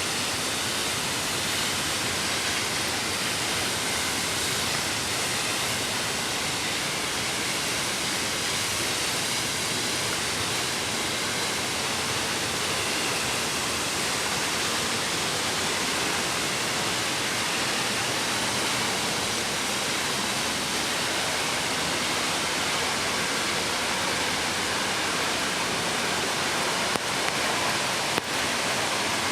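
Mountain creek water rushing steadily over rocks, a constant even hiss. Two brief clicks sound near the end.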